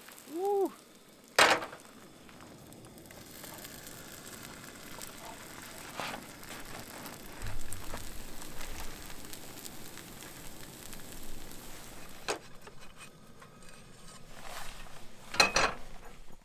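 Food frying in a pan over a campfire, sizzling steadily after being flipped, with a sharp knock about a second and a half in and two more near the end.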